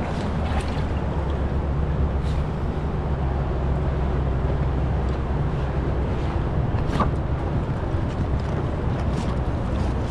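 Steady rush of river whitewater with a low rumble, as of moving water and wind buffeting the microphone, and a few faint clicks.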